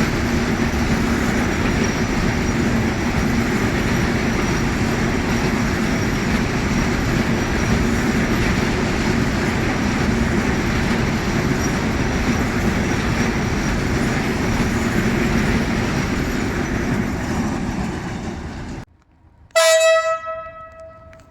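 A train running past, a steady loud rumble of wheels on rail, which cuts off abruptly near the end. It is followed by one short, loud blast of a train horn.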